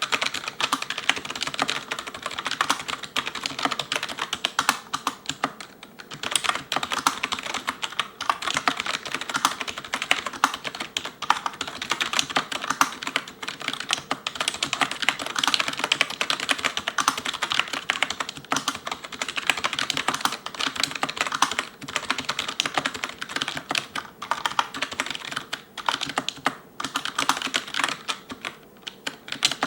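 Fast continuous touch typing on an ELECOM TK-FDM088TBK wireless membrane keyboard with cylindrical keycaps: a rapid stream of key clicks, broken by brief pauses about six seconds in and near the end.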